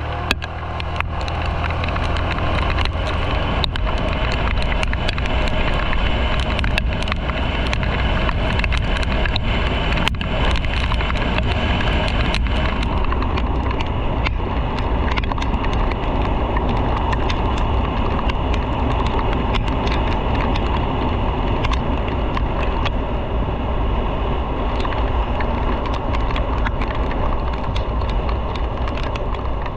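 A motorcycle riding along the road: a steady rush of wind and road noise over the engine, building up over the first second or so, then holding, with scattered small clicks.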